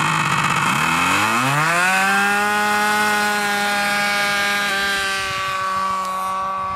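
Small model-aircraft engine, a Thunder Tiger, running up from idle to full throttle for takeoff, its pitch rising over about a second and then holding as a steady high buzz. It grows a little fainter near the end.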